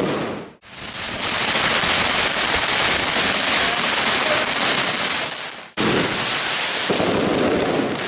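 Fireworks crackling densely and steadily. The sound cuts out abruptly about half a second in and again just before six seconds, starting again each time.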